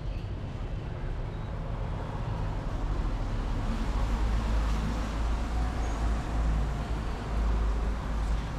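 Street traffic on a rain-wet road: a steady hiss with a low rumble that gets louder about halfway through.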